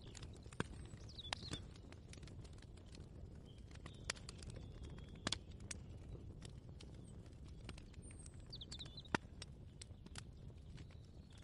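Faint kitchen ambience: a low steady rumble under scattered light clicks and knocks, with a bird chirping briefly twice.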